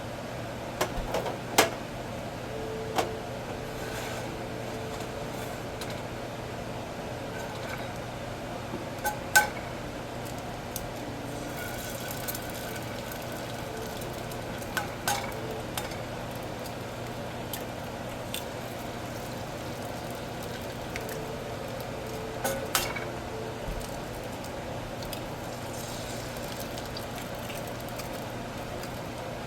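Occasional light clinks and knocks of household objects being handled, with the sharpest one about nine seconds in, over a steady low hum.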